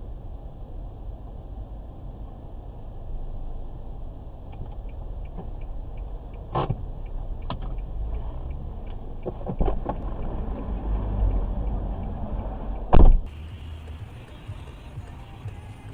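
Car road and engine rumble, with a few sharp knocks and one loud impact bang near the end.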